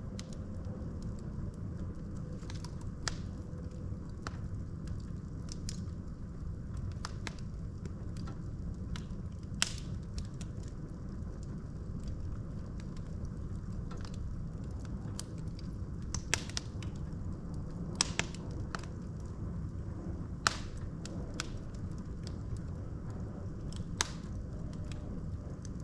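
Wood fire in a fireplace: a steady low rumble of burning logs, with irregular sharp crackles and pops from the wood, a few louder ones scattered through.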